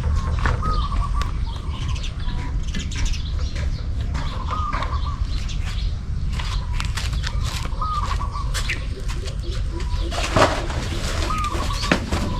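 Farmyard ambience: a bird's short chirp repeating every three to four seconds over a low steady rumble, with scattered clicks and rustles, the loudest about ten seconds in.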